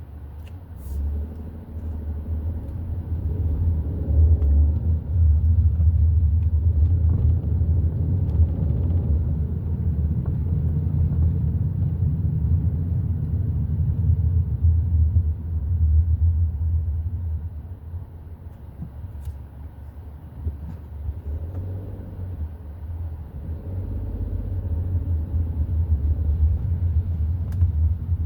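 Hyundai i30 N Line on the move: a low rumble of engine and road noise that grows louder over the first few seconds, eases off for a few seconds past the middle, then builds again near the end as the engine note rises.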